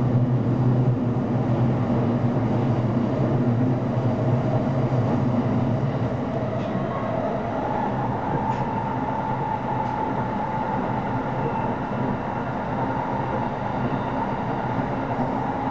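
Running noise inside a Shonan-Shinjuku Line electric commuter train at speed: a steady rumble of wheels and motors on the rails. A low hum fades over the first few seconds, and a higher humming tone comes in about seven seconds in.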